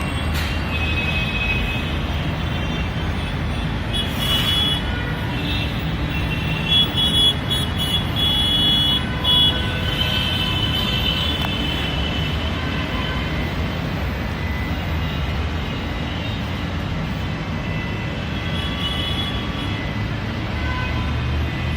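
Road traffic with a steady low rumble of passing vehicles and several short high-pitched horn toots, bunched about a third of the way through.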